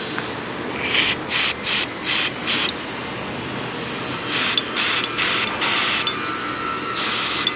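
Aerosol oil spray hissing in short bursts: a run of about five, a pause, another run of about five, then a longer burst near the end. The oil is being sprayed onto a broken screw to loosen it before it is turned out.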